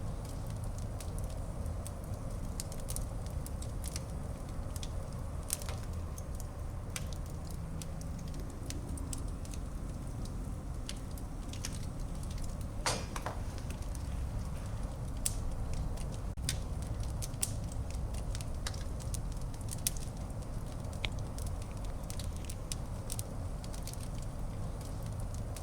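Wood fire burning in a fireplace: a low, steady rumble of flame with frequent sharp, irregular crackles and pops, and one short hiss about halfway through.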